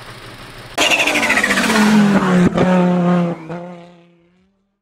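A car engine sound effect: a sudden loud engine note whose pitch falls away like a fast pass-by, then holds a steady note and fades out about four seconds in.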